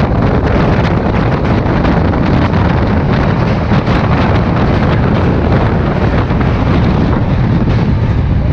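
Heavy wind buffeting the microphone over the steady low rumble of a moving train, with many small rattles and clicks.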